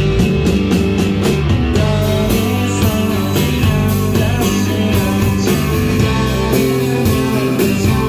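Live rock band music: guitars and bass over a steady drum beat, played at a full, even loudness.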